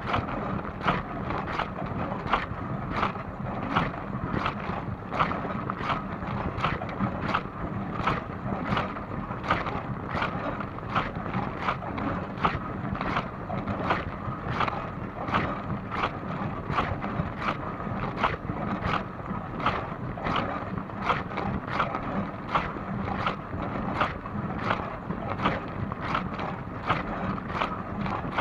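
Dishwasher running its wash cycle: a steady motor hum and rush of spraying water, with a regular splash a little more than once a second as the spray arm sweeps past.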